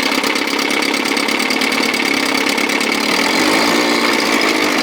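1957 Sea King 5 hp two-stroke outboard motor running steadily at low throttle, with a rapid, even firing.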